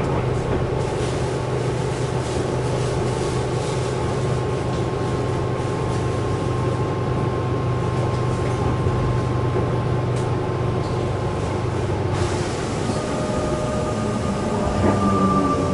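Tobu 20050 series EMU standing at the platform: the steady hum of its onboard equipment with two held whining tones. One tone drops out about twelve seconds in and the other comes back a moment later, with a faint click near the end.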